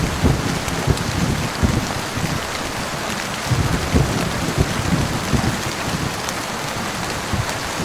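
Heavy rain falling steadily as an even hiss, with thunder rumbling low underneath in repeated swells.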